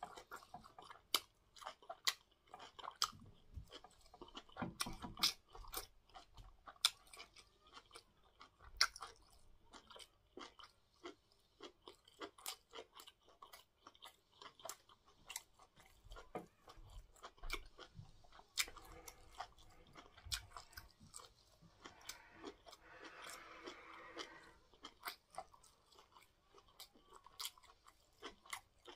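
A person chewing a mouthful of cocoyam fufu with bitter leaf soup close to the microphone: a steady run of quick mouth clicks and smacks.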